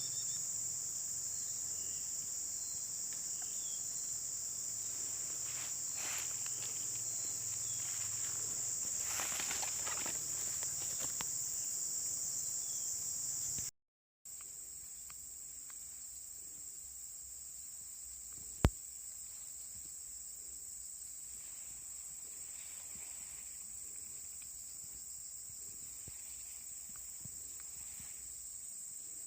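A steady, high-pitched chorus of insects such as crickets. Some rustling comes in partway through, the sound cuts out for a moment midway, and a single sharp click near the end is the loudest event.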